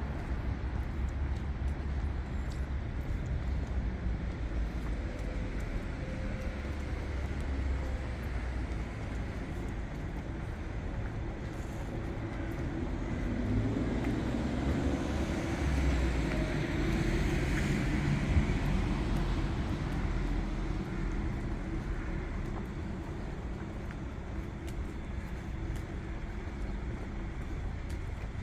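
City road traffic: a steady hum of passing cars, with one vehicle drawing near and going by about halfway through.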